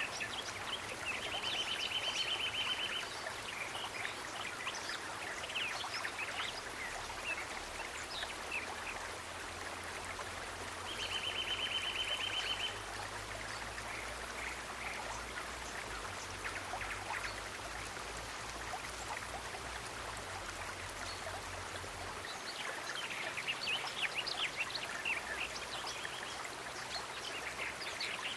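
Trickling, running water with many small drips and splashes. A rapid buzzy trill sounds twice, about a second in and again about eleven seconds in.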